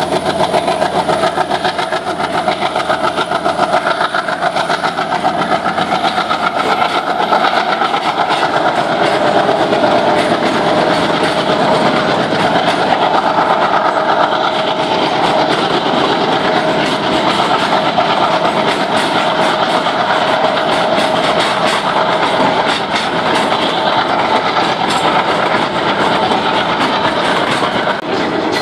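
Twin WDG-3A ALCO diesel locomotives, with their 16-cylinder ALCO 251 engines, chugging as they haul a heavy freight, followed by the covered wagons rolling past with their wheels clattering over the rail joints. A steady whine runs through the middle of it.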